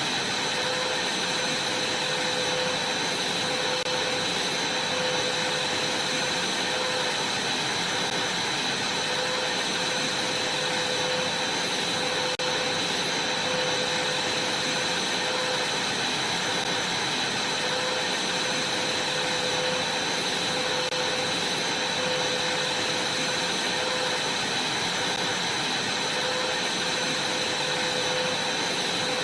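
Vacuum cleaner running steadily: a continuous rush of air with a steady high whine and a lower hum.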